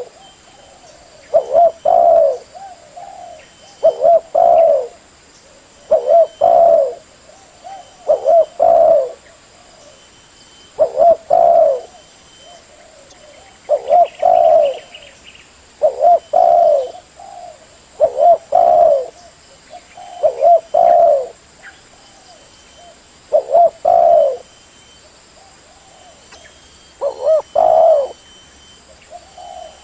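Spotted dove (Spilopelia chinensis) cooing, its two-part call phrase repeated about every two to three seconds, played as a lure call for trapping doves.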